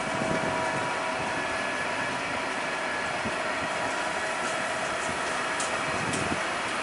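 Double-deck passenger train hauled by an electric locomotive rolling past: a steady rolling noise of wheels on rail with a steady whine over it, and a couple of faint ticks near the end.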